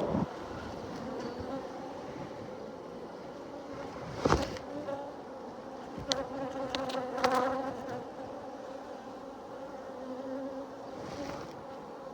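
Honeybees buzzing around an opened hive: a steady, many-bee hum. Brief rustling or knocking noises come about four seconds in and again around six to seven seconds.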